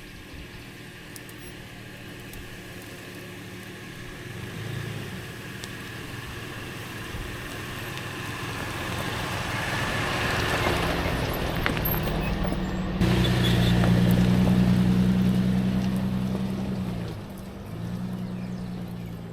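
A vehicle engine running steadily on a rough trail, getting louder, with a rushing hiss swelling around the middle. The engine note dips briefly and then recovers near the end.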